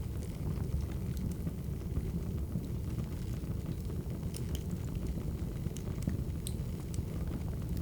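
Crackling wood fire: a steady low rumble of burning logs with scattered sharp pops and snaps.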